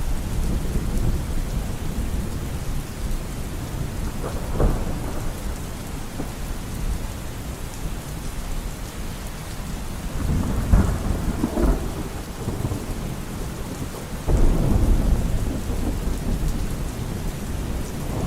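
Steady rain with rolling thunder: low rumbles swell several times, with a sharper crack about four and a half seconds in, another around ten to twelve seconds, and a long roll starting near fifteen seconds.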